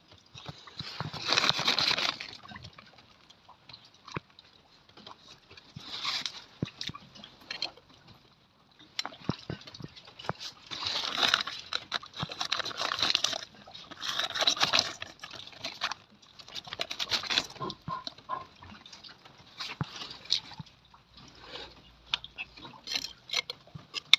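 Organic compost being scooped and scattered by hand around the base of a tomato plant: repeated bursts of crunchy rustling with small clicks, coming and going several times.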